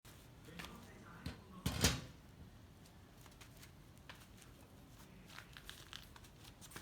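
Faint room noise with scattered light clicks and knocks, and one louder knock a little under two seconds in.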